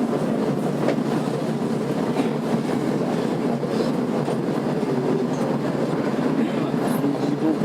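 Interior sound of a Tokyo Metro 02 series subway car with IGBT-VVVF drive: a steady rumble of the train with a few faint clicks.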